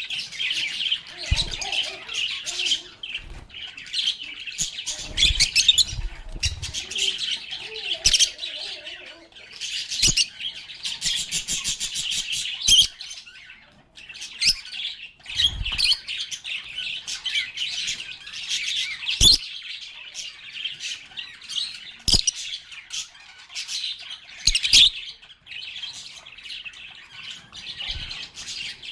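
A flock of lovebirds chirping and chattering continuously in rapid, high twittering calls, with a brief lull about halfway through. Occasional short low thumps sound among the calls.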